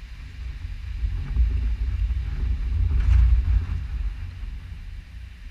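A gust of storm wind buffeting the microphone: a low rumble that builds to a peak about three seconds in and then dies away.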